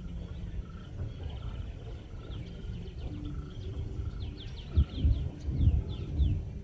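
Birds chirping: rapid series of short, high, sweeping notes, thickest in the second half. Underneath runs a low rumble, with a few stronger low bursts near the end.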